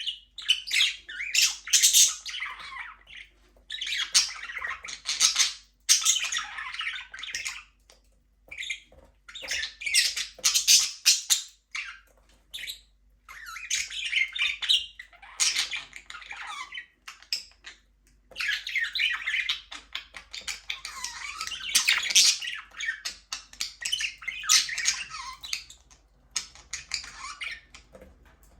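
Budgies (budgerigars) chirping and chattering, several birds calling over one another in bouts of a second or two, with short pauses between bouts.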